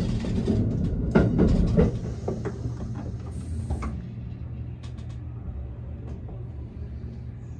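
Limited express train heard from inside the car as it pulls into a station platform: low running noise with a few clicks of the wheels over rail joints in the first two seconds, growing quieter as the train slows to a stop.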